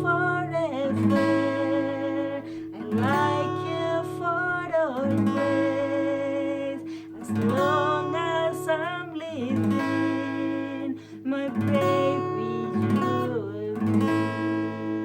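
Acoustic guitar strummed in a slow rhythm under a voice singing a gentle lullaby melody, with long held notes that waver slightly.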